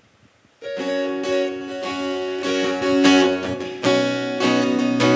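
Acoustic guitar strummed in chords, starting suddenly about half a second in after near silence, with fresh strums every second or so.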